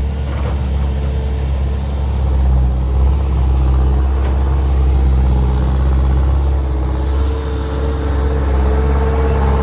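Six-wheel truck's engine running steadily as the truck reverses, a deep continuous hum with a faint whine that rises slightly near the end.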